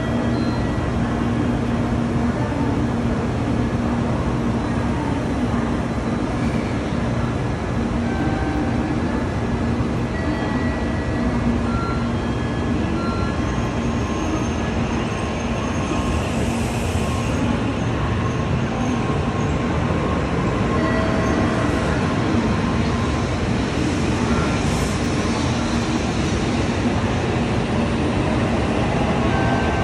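Shinkansen train pulling out of a station platform: a steady low rumble and hum as the 923-series Doctor Yellow inspection train moves off and away.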